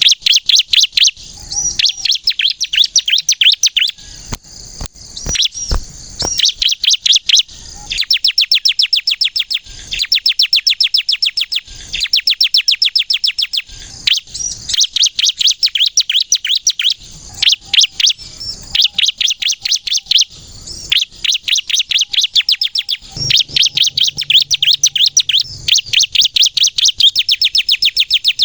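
Bar-winged prinia ('ciblek kristal') singing loudly in rapid, high-pitched trills of quickly repeated notes. The trills come in bursts of one to three seconds with short pauses between them.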